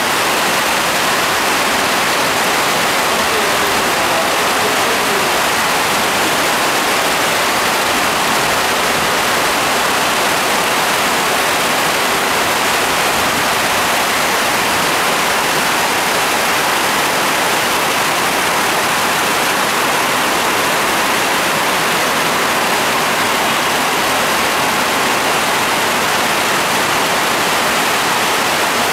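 Heavy rain pouring down steadily on roofs and streets, an even, unbroken rush that does not let up.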